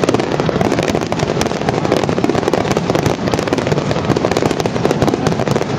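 Finale barrage of aerial firework shells bursting about 100 m away: loud bangs in quick succession that overlap into a continuous rolling din without a pause.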